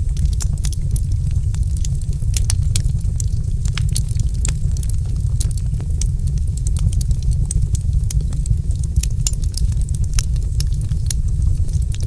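Wood fire crackling in a fireplace: frequent sharp, irregular snaps and pops over a steady low rumble.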